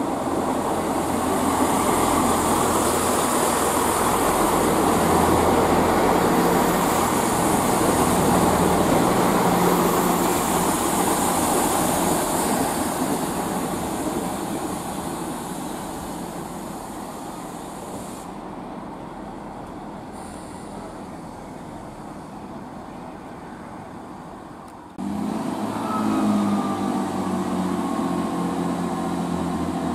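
Class 165 Networker Turbo diesel multiple unit running through the station, its engines and wheels on the rails swelling loud then fading away. About 25 seconds in, the sound cuts abruptly to the unit close by again, with a steady engine drone and a thin falling squeal.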